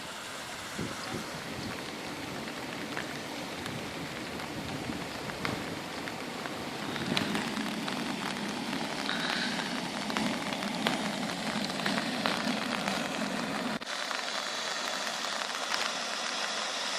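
Monsoon rain falling steadily, a dense patter of drops. Near the end the low part of the sound drops out abruptly.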